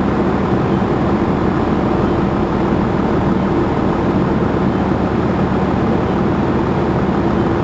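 Fire truck engine running with a steady, even drone.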